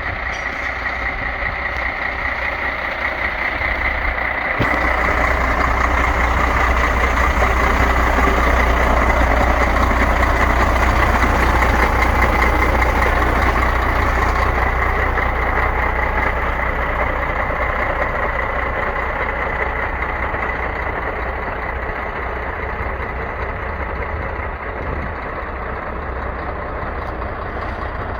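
2006 MAN TGA 33.360 concrete mixer truck's six-cylinder diesel engine running at idle, with a steady high whine along with it. It grows louder about four seconds in, then eases off slowly.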